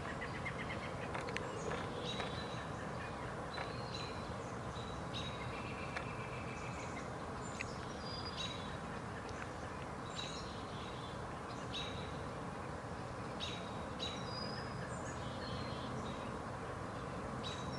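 Small birds chirping, short high calls every second or so, over steady outdoor background noise.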